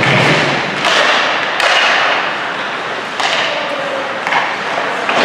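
Ice hockey game sounds: several sharp knocks of stick, puck or boards over a loud, continuous arena noise.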